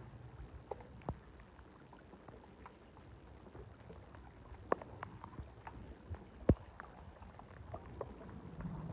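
Scattered, irregular small knocks and splashes over a low rumble of water, with one louder knock near the end.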